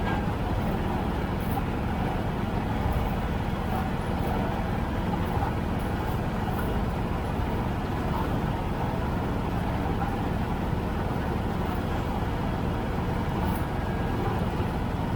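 Tractor engine running steadily at an even speed, with no revving or change in pitch.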